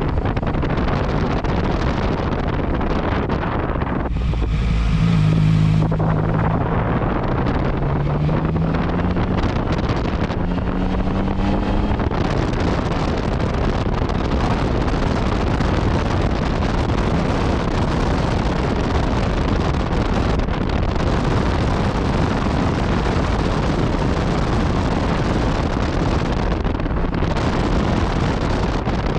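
Yamaha MT-09 Tracer motorcycle riding at speed, heavy wind rushing over the microphone throughout. About four seconds in, the three-cylinder engine through its Akrapovic exhaust is heard accelerating, its pitch rising in steps through the gears, before sinking back under the wind noise by about twelve seconds.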